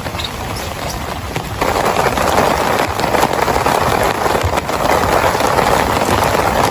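Heavy rain pattering, a dense hiss of many small drop hits, growing louder and heavier about a second and a half in.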